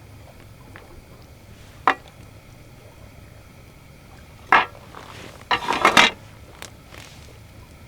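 Camp cookware being handled: a single sharp knock, then another, then a quick run of metal clinks and clatters.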